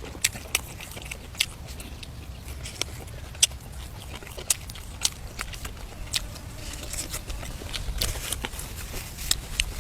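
A person chewing food close to the microphone, with irregular sharp wet smacks and clicks of the mouth every half second or so.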